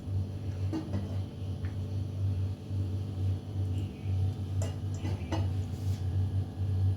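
A steady low hum in the kitchen, with a few faint light clicks about a second in and again around the fifth second, while oil heats in a frying pan.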